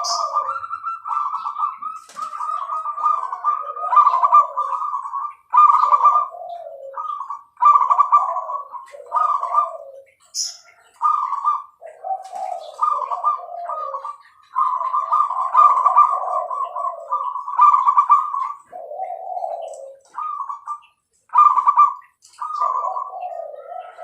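Zebra dove (perkutut) cooing over and over: a string of repeated coo phrases, each a run of quick notes with falling notes, and short pauses between phrases.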